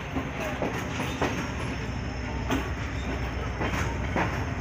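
Moving passenger train heard from an open coach doorway: a steady rumble of wheels on rails with irregular clacks as the wheels cross rail joints.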